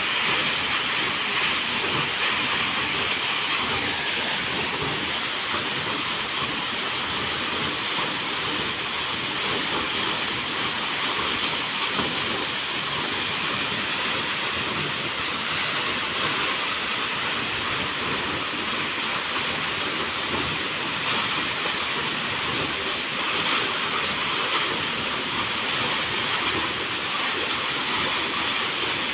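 Waterfall: a steady rush of falling water, heard mostly as an even hiss that holds constant throughout.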